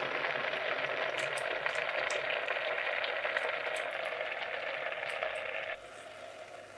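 Food sizzling and crackling in a hot pan, a loud steady sizzle that drops suddenly to a quieter one near the end.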